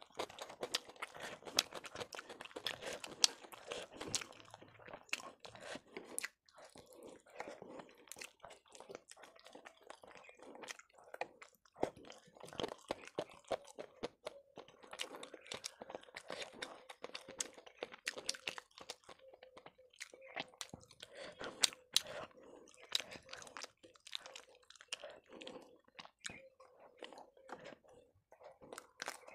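Close-miked chewing and eating sounds of a person eating bread and chicken curry by hand: irregular wet mouth smacks, bites and crunches.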